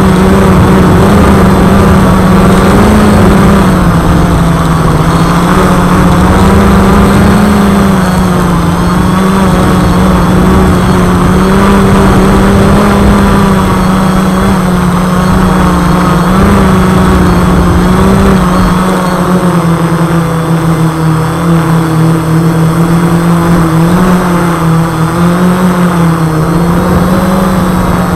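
ArduCopter Y6B multirotor's six motors and propellers droning in flight, a loud steady hum whose pitch wavers slightly up and down throughout.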